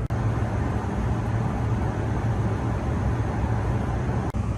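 Steady roar of a jet airliner's cabin in cruise flight, with a strong low hum, cutting out for an instant twice.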